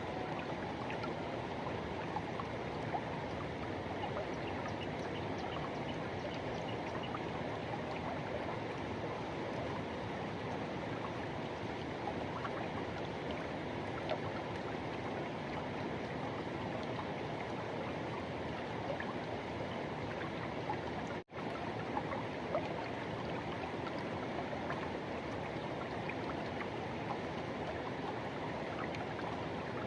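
Forest river rushing: a steady, even wash of flowing water, with a split-second dropout about two-thirds of the way through.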